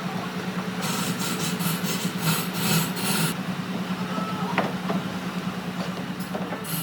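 Rhythmic back-and-forth rubbing strokes on wood, about three or four a second for a couple of seconds, over a steady low hum.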